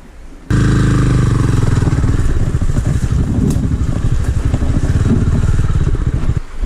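A 250 cc scrambler motorcycle engine running loud and close, with a fast, even firing beat. It starts abruptly about half a second in and drops away just before the end.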